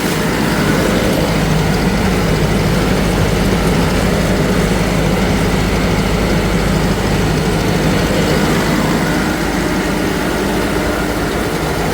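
Deutz-Fahr Agrolux 80's four-cylinder CRDI diesel engine running steadily under load at about 1600 rpm, driving a PTO rotary tiller at 540 rpm that is mulching banana plants behind the tractor.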